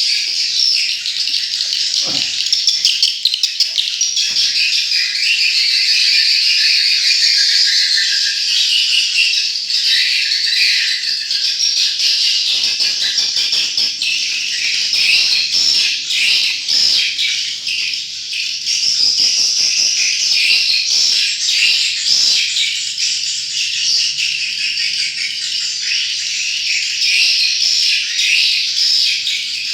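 Dense, continuous chirping and twittering of edible-nest swiftlets, many high calls overlapping into a steady chorus.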